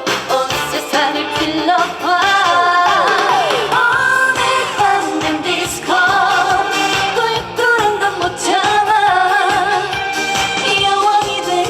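A trot song performed live: a woman's voice sings a wavering, vibrato-laden melody over a backing track with a steady beat.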